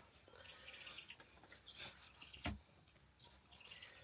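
Faint bird chirping, with a single sharp knock about two and a half seconds in.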